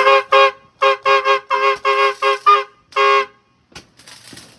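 Car horn honking about ten short toots in a quick rhythmic pattern, with a steady two-note tone; the last toot comes after a short pause.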